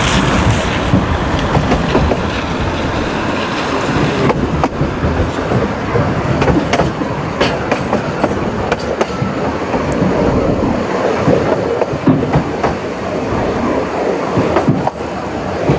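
Narrow-gauge railway train running steadily, its wheels clattering and rattling over the track with scattered sharp clicks.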